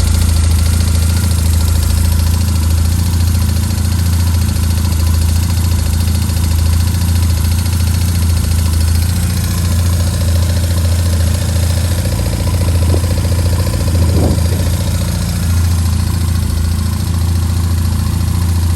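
BMW R1150RS boxer-twin engine idling steadily, with a ticking, rattling clatter from the engine. A few short wavers in pitch about two-thirds of the way through.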